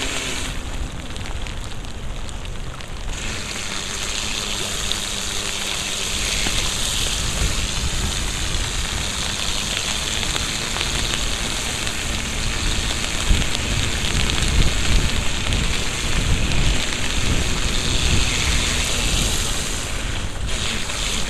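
Steady hiss of heavy rain and water off a wet road under a moving electric unicycle, growing louder about three seconds in. Low gusty wind rumble on the microphone joins in the second half.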